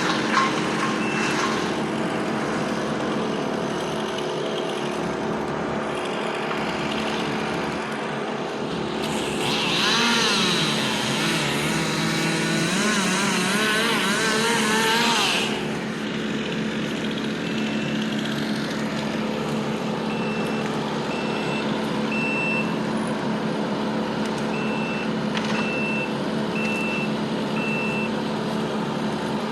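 Heavy tree-removal equipment engines running steadily, with a louder machine working for about six seconds near the middle, its pitch wavering. In the second half a backup alarm beeps in short, evenly spaced pips.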